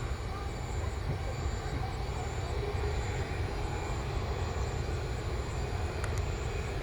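Jet airliner engines running at taxi power, heard from a distance as a steady low rumble, from a Boeing 767-300ER moving along the taxiway.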